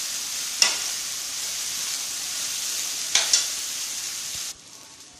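Oil sizzling in a hot kadai as millet vermicelli is stirred with a metal spatula, with a sharp clink of the spatula on the pan about half a second in and two more near three seconds. The sizzling drops away abruptly near the end.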